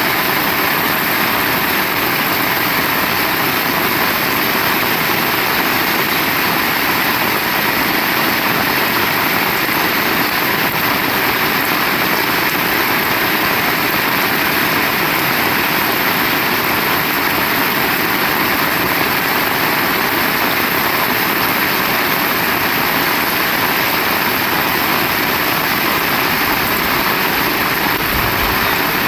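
Heavy rain falling, a steady, loud hiss with no let-up.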